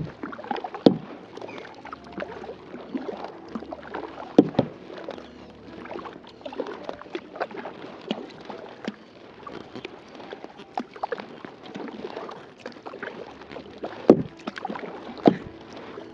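Kayak paddling on a lake: the paddle dipping and splashing in the water, with irregular sharp knocks, the loudest few near the start, about four seconds in and near the end.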